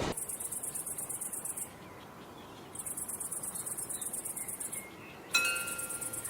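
Crickets chirping in a fast, even pulse, breaking off twice briefly. About five seconds in, a sudden ringing chime-like tone comes in over them.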